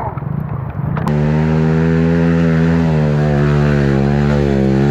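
Suzuki TS125 trail motorcycle's single-cylinder two-stroke engine held at high revs, its pitch sagging slightly midway and starting to drop near the end. It begins abruptly about a second in, after a moment of rougher outdoor noise.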